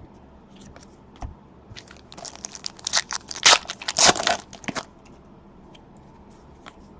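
Plastic trading-card pack wrapper crinkling and tearing as a pack is opened, a burst of rustles about two to five seconds in, with a few light clicks before and after.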